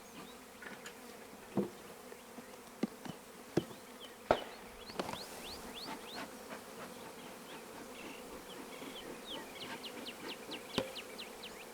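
Honeybees buzzing steadily in a swarm around the open package, with a few sharp knocks and clicks from the package case being worked open. Runs of short, high squeaks come around the middle and again near the end.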